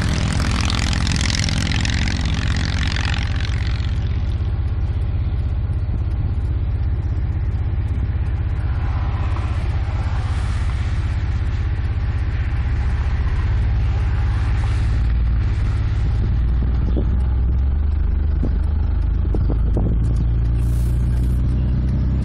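A car's engine runs steadily, heard from inside the cabin as a constant low hum. A passing vehicle's hiss fades away over the first few seconds.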